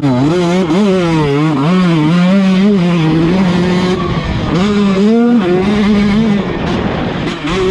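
2019 KTM 150 SX's single-cylinder two-stroke engine being ridden hard, its revs rising and falling quickly with the throttle for the first three seconds, then holding steadier, with a dip and climb about five seconds in and another short dip near the end.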